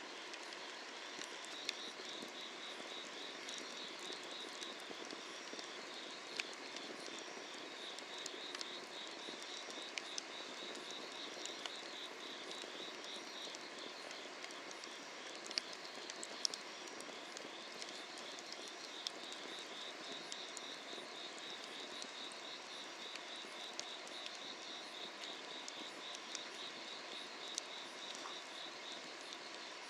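Firewood burning under an iron cauldron, crackling with scattered sharp pops over a steady hiss, while summer-night insects chirp continuously in fast pulsing trills.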